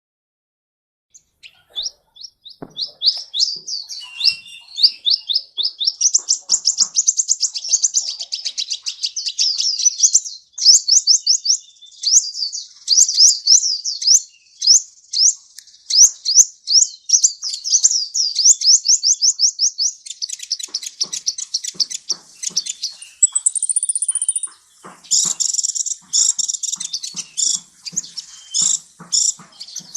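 A sunbird singing: long, fast runs of high, thin chirps and trills, starting about a second and a half in, with a brief higher whistle near the end.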